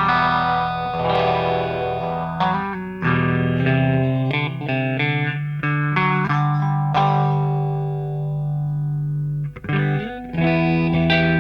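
Electric guitar played through a phaser pedal, chords and single notes ringing out, with a short break near the end before the playing picks up again.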